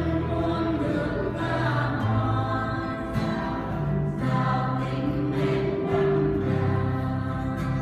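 Church choir singing a hymn in sustained, held chords, the low voices moving to a new note every second or so.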